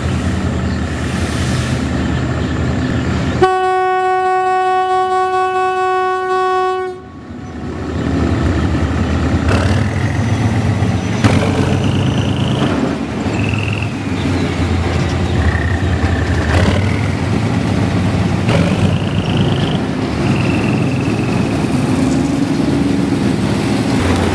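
Diesel locomotive running as it approaches, then one long horn blast lasting about three and a half seconds. The train then rolls across a steel girder bridge, its wheels rumbling and clattering over the rails, with a few short high squeals.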